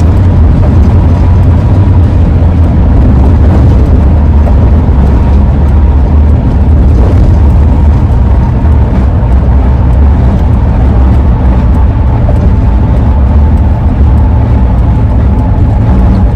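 Steady road and engine rumble inside a moving Ford E-350 camper van, with a thin, steady howling tone from the AA Ladder roof rack carried over it. The tone dips slightly in pitch over the last few seconds.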